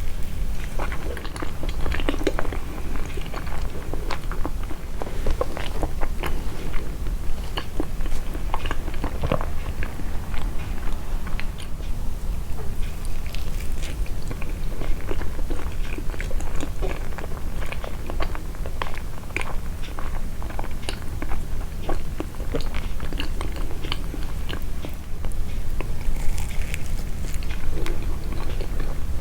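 Close-miked chewing of soft homemade sweets, a steady run of many small mouth clicks and smacks over a low steady hum.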